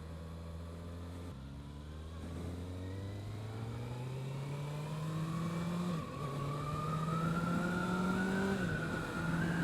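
Kawasaki ZX-6R's inline-four engine, on its stock exhaust, pulling away gently. Its pitch rises steadily, drops at an upshift about six seconds in, then climbs again, with another shift near the end.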